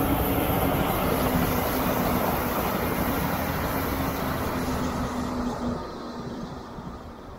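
Brightline diesel-electric passenger train going past, its rolling noise and steady engine hum dying away about six seconds in.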